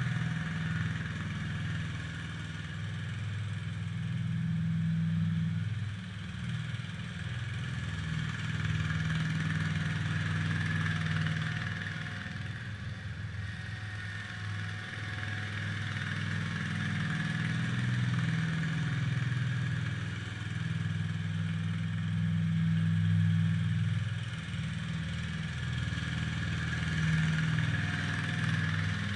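International Harvester Cub Cadet 147 garden tractor's engine running steadily while plowing snow with its front blade, its loudness swelling and easing every few seconds as the load changes.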